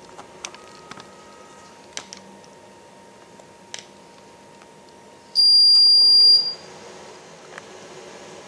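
A single long, high electronic beep lasting about a second, from the pellet fireplace's automatic control unit, over steady background noise. A few light clicks come before it.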